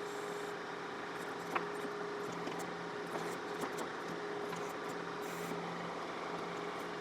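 John Deere 4052R compact tractor's diesel engine running steadily while it powers the 485A backhoe, with a single short click about a second and a half in.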